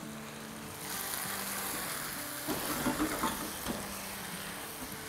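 Diced potatoes and chopped tomatoes sizzling in a pan on medium-low heat, the hiss swelling about a second in. A spatula stirs through them with a few scrapes and knocks in the middle.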